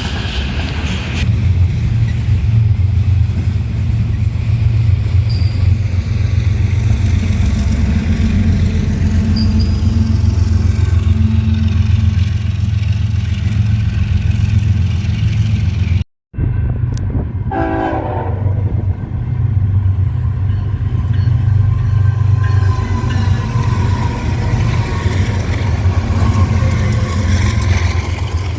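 A train passing with a steady, heavy low rumble. About halfway through the sound cuts out completely for a moment, then resumes.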